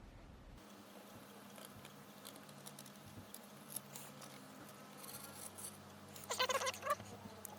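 Faint small clicks and ticks of hands and tools working on a smartphone, with a brief squeak of wavering pitch about six and a half seconds in.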